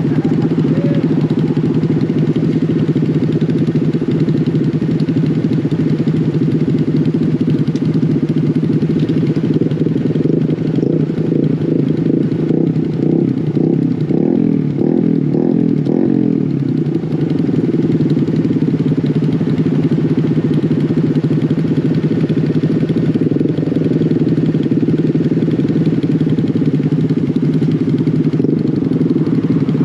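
Mini bike engine running steadily under way, its pitch wavering up and down for several seconds around the middle as the throttle changes.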